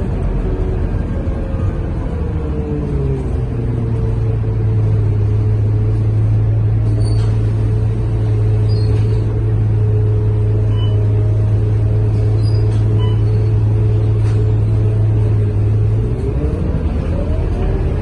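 Scania K230UB bus's diesel engine heard from inside the bus. The engine pitch shifts for the first few seconds, then settles into a steady low drone for about twelve seconds, and starts shifting again near the end.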